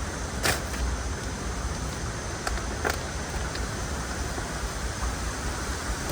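Steady background noise with a low rumble, broken by a few sharp clicks as mower parts are handled during assembly: one about half a second in and two more near three seconds.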